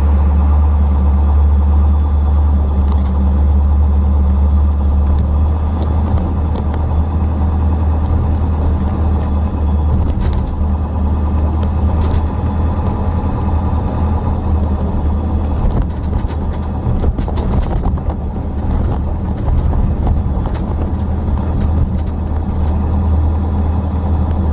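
Truck engine running with a steady low rumble, with a few small clicks and rattles over it.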